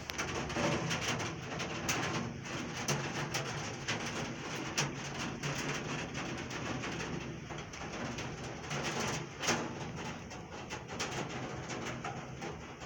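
Heavy rain: a steady hiss with many sharp drops striking a hard surface close by, over a low steady drone.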